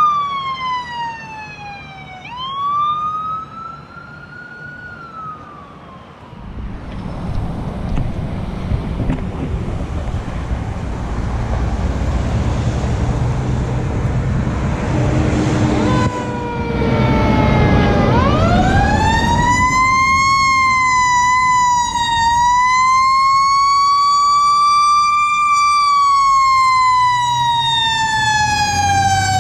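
Fire truck siren wailing up and down, then giving way to a heavy engine rumble and road noise as the truck goes by. Partway through, a siren rises again and wails loudly in long, slow sweeps.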